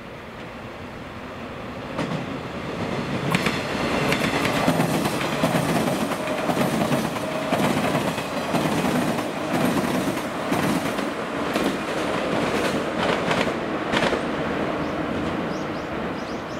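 A six-car JR West 115 series electric train passing close by, its wheels clattering over the rail joints. The sound builds from about two seconds in, is loudest through the middle as the cars go by, and fades near the end as the train moves away.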